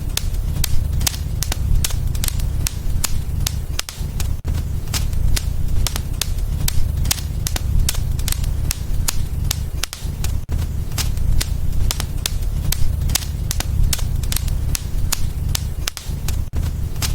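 Wood fire burning in a fireplace, crackling with sharp pops several times a second over a steady low rumble.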